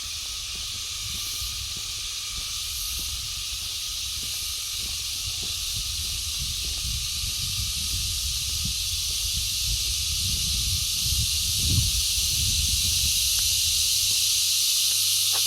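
Forest insect chorus: a steady high-pitched droning hiss that slowly grows louder, over low thumps of walking footsteps.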